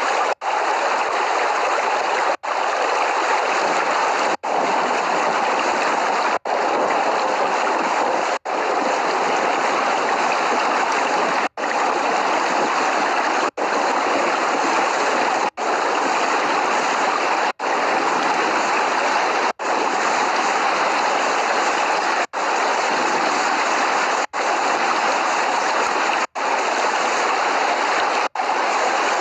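Steady, even rain noise, broken by a brief cut to silence about every two seconds.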